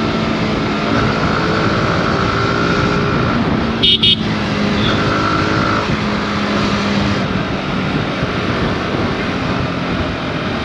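Yamaha R15 V4's 155 cc single-cylinder engine running steadily as the motorcycle is ridden in traffic. About four seconds in, a horn beeps twice in quick succession.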